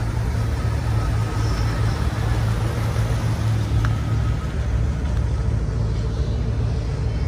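Steady low rumble of idling vehicle engines.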